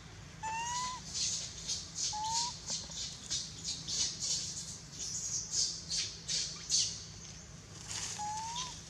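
Baby monkey calling: many short, shrill, hissy squeaks in quick irregular succession, with three brief rising whistle-like chirps among them.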